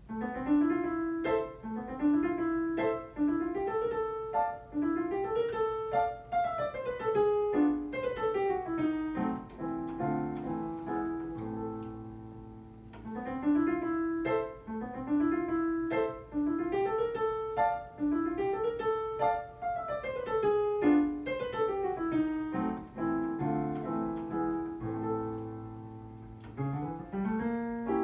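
Solo piano starting to play a fast étude: quick rising broken-chord figures over held bass notes, each figure climbing and falling back. The opening phrase comes round again about halfway through.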